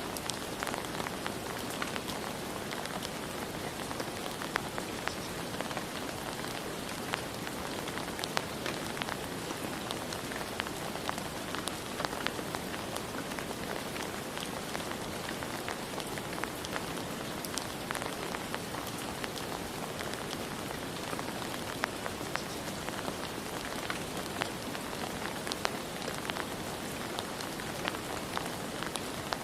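Steady rainfall: an even hiss of rain with many distinct drops pattering on a surface.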